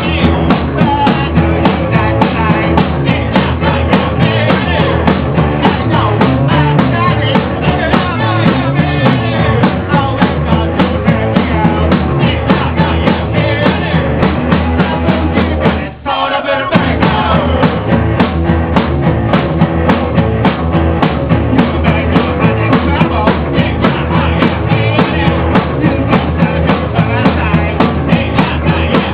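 Loud rock band playing, with drums and singing; the band breaks off for a moment about halfway through and then crashes back in.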